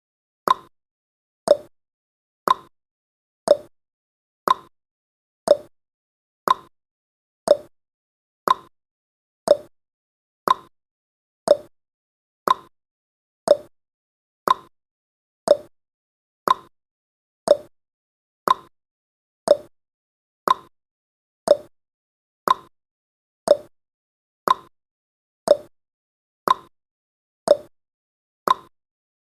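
Countdown timer's clock-tick sound effect: one short, sharp tick every second, each dying away quickly.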